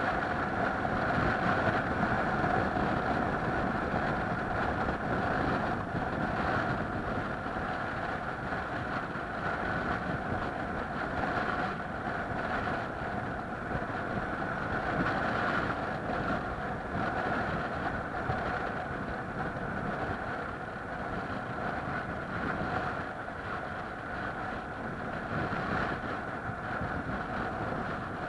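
Steady running noise of a moving vehicle: a constant low rumble with an even hum over it.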